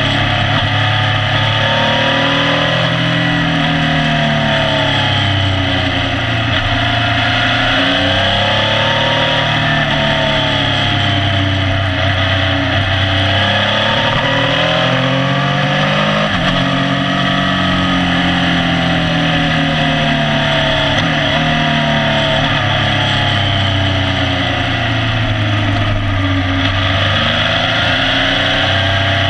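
Motorcycle engine running under way, its pitch repeatedly rising as it accelerates and falling back as the throttle closes through a run of bends, over a steady rush of wind and road noise.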